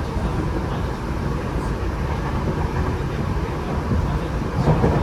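Running noise inside a Tokyo Metro 8000 series electric train car: a steady rumble of wheels on rail. Near the end it grows a little louder as the wheels begin to clatter over rail joints.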